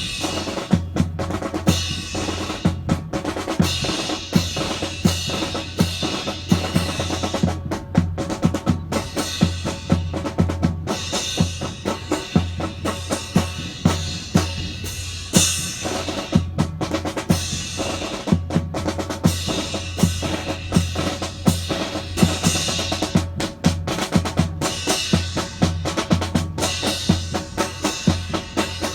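Marching percussion playing a fast, continuous cadence: rapid snare-drum strokes and rolls over bass drum beats.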